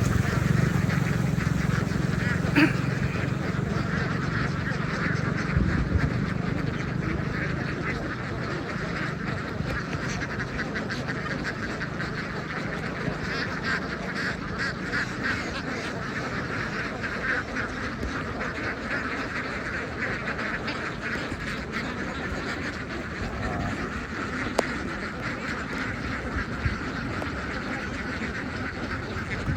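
A large flock of ducks quacking together in a continuous, overlapping chorus. A low hum underneath fades out over the first several seconds.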